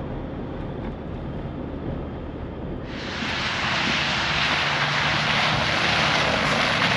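A vehicle driving along with a low, steady engine drone. About three seconds in, a loud steady rushing hiss starts suddenly and covers the drone.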